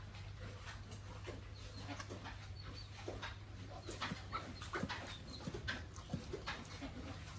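Animal noises: scattered short squeaks and snuffling clicks over a steady low hum.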